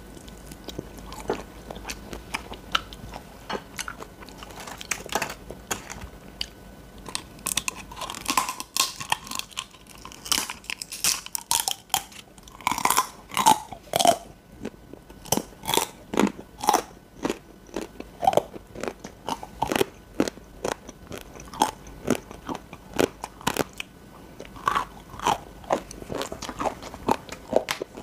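Close-up mouth sounds of chewing grilled beef large intestine (daechang): repeated wet smacks and clicky bites, about one to two a second, busiest in the middle.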